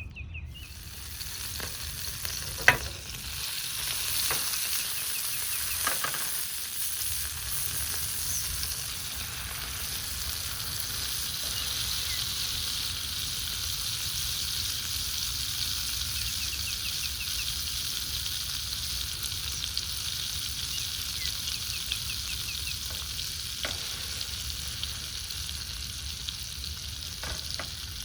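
Food frying in a hot pan with a steady sizzle that builds over the first few seconds and then holds, with one sharp click near the start.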